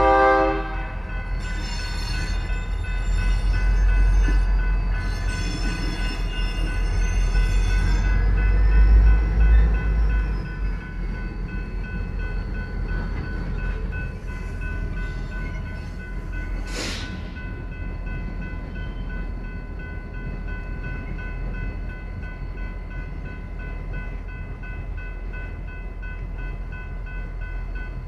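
Two EMD GP38-2 diesel-electric locomotives sounding their horn in two long blasts, over the heavy rumble of their 16-cylinder engines as they pass. After about ten seconds this gives way to the steadier, quieter rumble of the train's cars rolling by.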